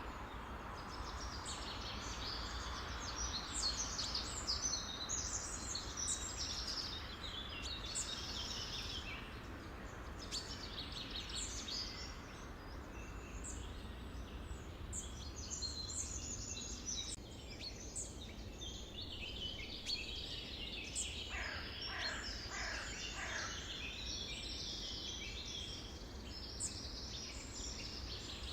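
A dense chorus of many songbirds chirping and trilling over one another, over a steady low background hiss. A few seconds past the middle comes a run of several calls that sweep sharply downward.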